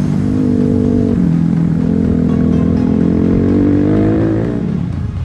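Enduro motorcycle engine running at a fairly steady speed, its pitch shifting in steps with the throttle and easing off near the end.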